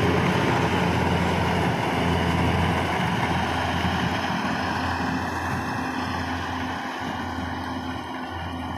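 Rice combine harvester's engine running steadily as it works, slowly growing fainter.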